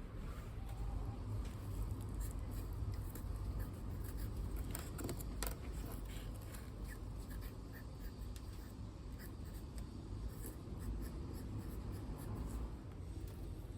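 Soft scratching and small clicks of hands working compost and handling plastic plant pots while potting up tomato seedlings, over a steady low rumble of wind.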